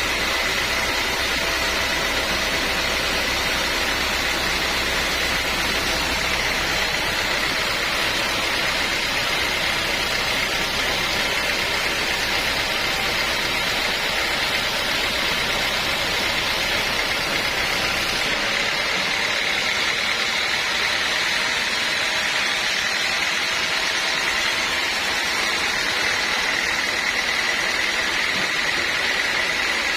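Sawmill machinery running steadily: an even mechanical noise with a high whine held throughout. The low rumble drops away about two-thirds of the way through while the whine carries on.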